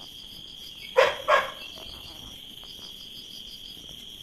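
Night insects chirring steadily, a high, pulsing buzz, with two loud short sounds in quick succession about a second in.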